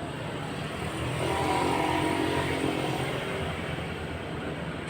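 Engine running with a steady low hum. About a second in, a higher-pitched engine sound grows louder, then fades again by about three seconds.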